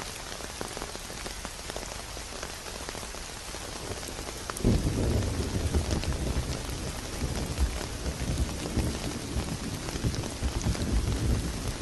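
Steady rain pattering, joined about a third of the way in by a sudden roll of thunder that keeps rumbling low under the rain to the end.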